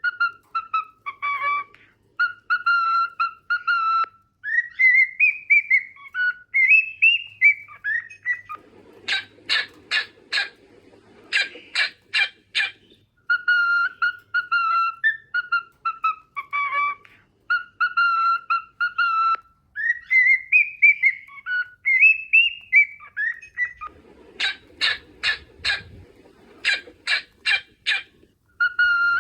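Cockatiel singing: a run of short whistled notes, then rising, warbling glides, then a burst of about six sharp clicks. The same phrase comes round a second time about halfway through.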